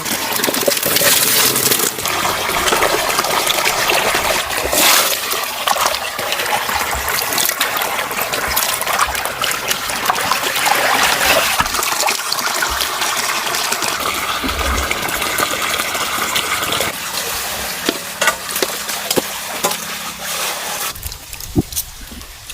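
Water splashing and gushing, with scattered knocks; it eases off shortly before the end.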